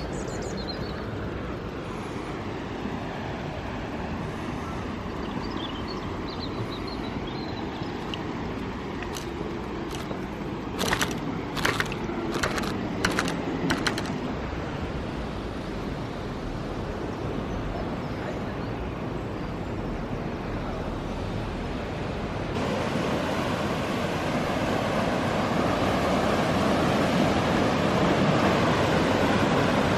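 Steady outdoor background noise, with a handful of sharp clicks about a third of the way in. About three quarters through, a louder steady rushing noise sets in and keeps growing.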